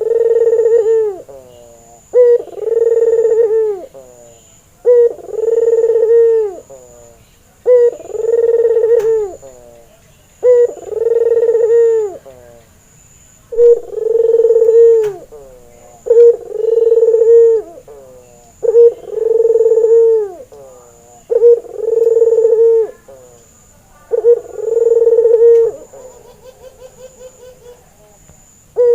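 Male Barbary dove (burung puter) cooing over and over. Each call is a short note followed by a long, drawn coo, repeated about every two and a half to three seconds, about ten times. The last coo trails off into a quick, fading rattle.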